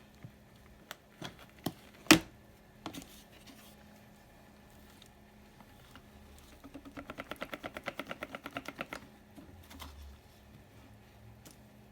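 Plastic parts of a vacuum cleaner being handled as its dust bin is taken off for emptying: a few clicks and one sharp snap about two seconds in, then a fast even rattle of about nine clicks a second lasting a couple of seconds.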